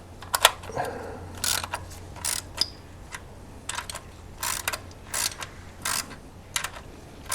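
A ratchet wrench clicking in short bursts, about once a second, as a bolt is wound into freshly tapped threads in an aluminium valve cover and the new threads start to bite.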